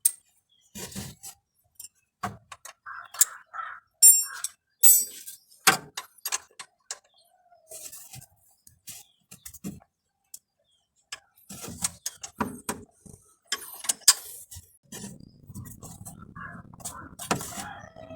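Irregular metallic clinks and knocks from tools and starter-motor parts being handled, a few ringing briefly. A low rumbling noise joins in for the last few seconds.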